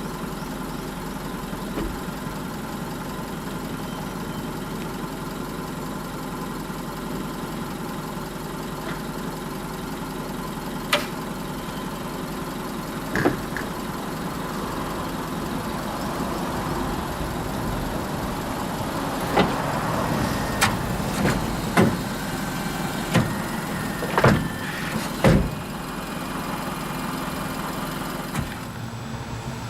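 Under-floor stowable power tailgate of a Mitsubishi Fuso Canter refrigerated truck in operation: a steady motor hum, with scattered metallic clanks and knocks, most of them bunched in the latter half as the lift platform moves.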